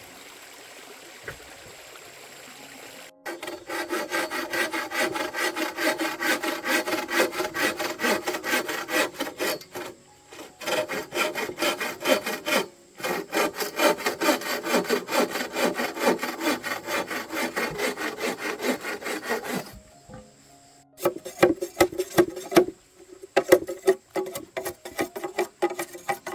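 Rapid, rhythmic rasping strokes, as of a tool working wood, starting about three seconds in and pausing briefly a few times; near the end the strokes become slower, lower and more uneven.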